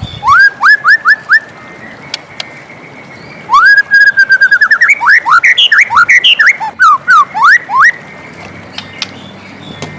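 White-rumped shama (murai batu) singing: a quick series of four rising whistled notes, then, after a pause, a long fast phrase of rising and falling whistles that starts about three and a half seconds in and lasts about four seconds. A steady faint hiss runs underneath.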